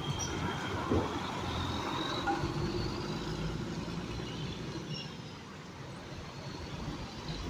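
Truck engine running with road noise, a steady low rumble, with a short knock about a second in.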